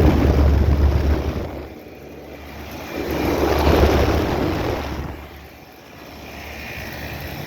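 Low, rushing rumble that swells and fades twice: loud over the first second, dipping, then loud again around four seconds in.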